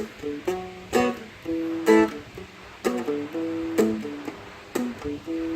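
Seagull Merlin M4, a four-string fretted strumstick, played with single notes picked between sharp strums about once a second; the strumming is palm-muted.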